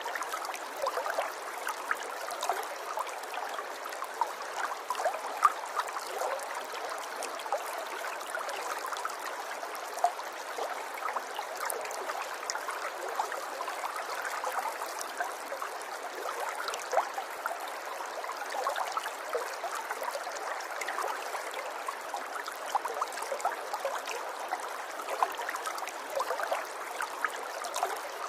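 River water flowing over rocks: a steady babble with many small splashes and gurgles.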